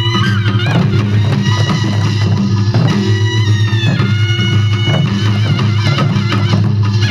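Korean traditional music for the Jindo drum dance: buk drums beating over a steady low drone and a wavering melody that bends in pitch.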